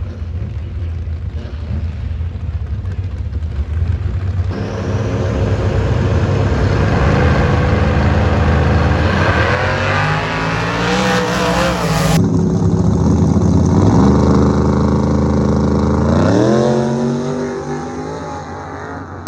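Race car engines accelerating hard at full throttle, the pitch climbing and then dropping back through gear changes. The sound jumps abruptly twice, about four and twelve seconds in, to another run.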